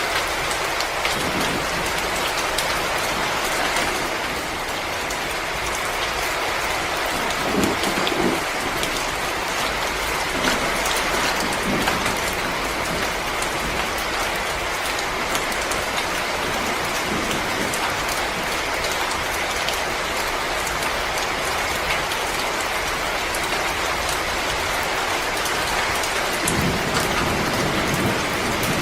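Fireplace fire crackling: a dense, steady run of small snaps and pops over a hiss, with a few louder pops now and then.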